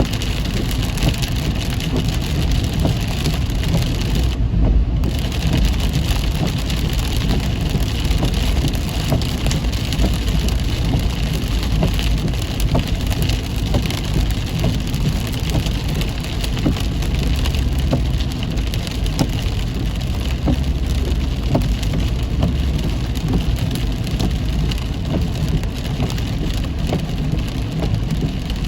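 Heavy rain pattering on a moving car, a dense hiss of drops with many sharp ticks, over a steady low rumble of road and engine. The hiss briefly dulls about four and a half seconds in.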